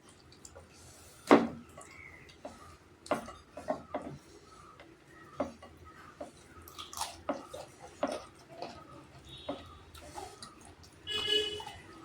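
Eating noises from a meal of chicken and rice: chewing, with scattered small clicks and taps, the loudest about a second in, and a short ringing sound near the end.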